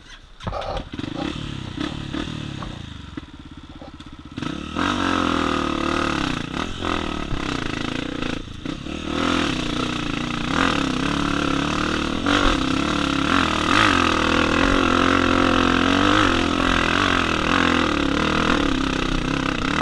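Dirt bike engine running low for the first few seconds, then revving hard from about four and a half seconds in, its pitch rising and falling over and over as the throttle is worked.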